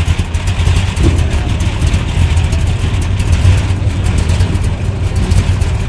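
BriSCA F1 stock car V8 engines running, a loud, steady, low engine note with a rapid pulsing throb.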